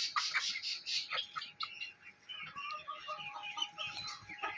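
Aseel-Misri cross hens clucking, a scatter of short clucks and high chirps.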